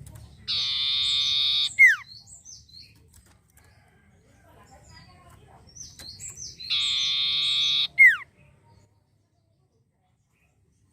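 Sirtu song from a bird-lure recording, heard twice: a harsh buzzing trill of about a second, ending in a sharp, loud falling whistle, with quick high chirps just before and after. It cuts to silence near the end.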